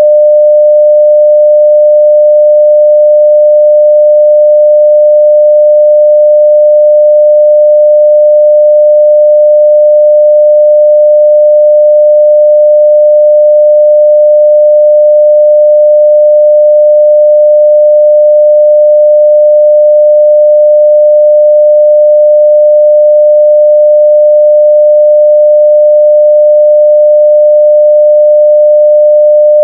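A 600 Hz sine-wave test tone at full level, held steady and unchanging.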